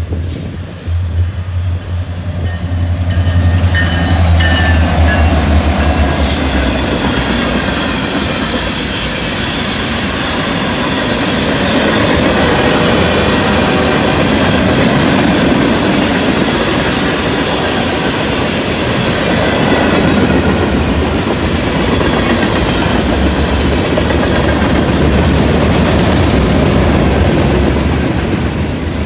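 Norfolk Southern freight train passing: a steady low diesel locomotive hum for the first several seconds, then freight cars rolling by with wheel clatter over the rails and faint high wheel squeal.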